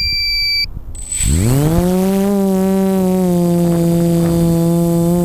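A short electronic beep, then the FPV model aircraft's electric motors spin up with a quickly rising whine about a second in and settle into a steady drone at full power.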